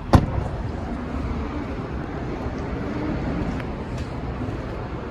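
A single sharp bang just after the start, then a steady low rumble with a faint hum.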